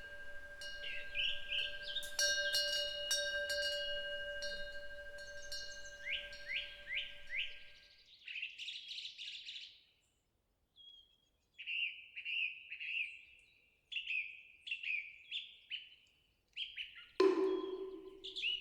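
A temple wind bell (punggyeong) rings with a long sustained tone, struck several more times in the first seconds, and fades out by about eight seconds in. A bird chirps in repeated short falling notes through the middle. Near the end a moktak (wooden fish) begins to be struck in quick hollow knocks.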